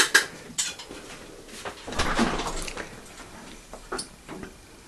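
Scattered light clicks and knocks of handling, with a brief rustle about two seconds in.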